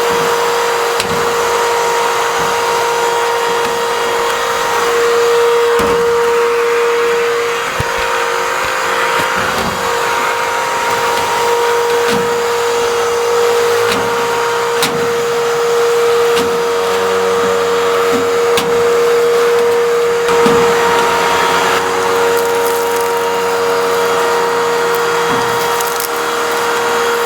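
Vacuum cleaner running steadily with a constant motor whine and rushing air, with scattered knocks as the nozzle bumps around while dirt is vacuumed out of a return-air duct.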